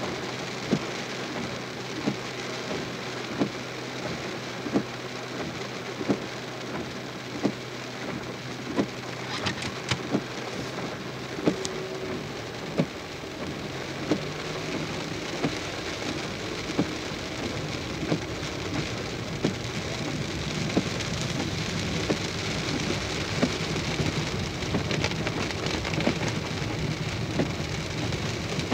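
Heavy rain beating down steadily, with a regular knock about every 1.3 seconds. Thunder rumbles low in the second half.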